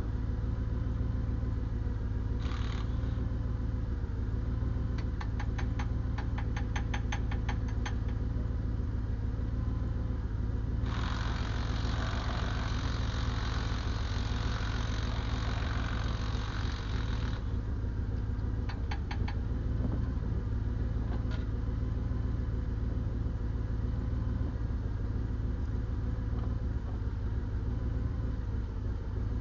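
Diesel engine idling steadily. A quick run of clicks sounds a few seconds in, and a loud hissing rush lasts about six seconds around the middle.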